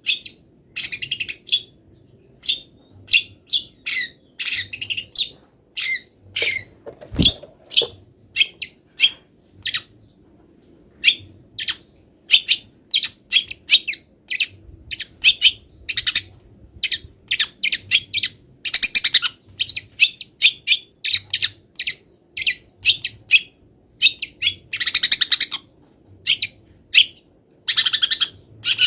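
Long-tailed shrike singing a rapid, varied string of short high chirps and calls, many copied from other wild birds, broken by a few longer scratchy chatters. A single low thump sounds about seven seconds in.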